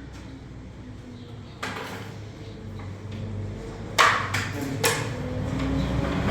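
A few sharp knocks or clatters, the loudest about four seconds in with two more close after it, over a low steady hum.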